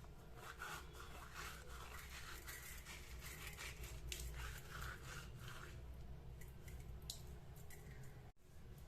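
Irregular soft scraping and rubbing sounds over a steady low hum, with a brief dropout near the end.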